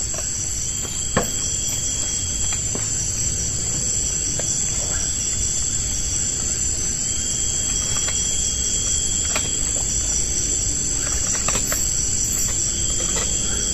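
Steady high-pitched chorus of forest insects over a low steady rush, with one sharp click about a second in.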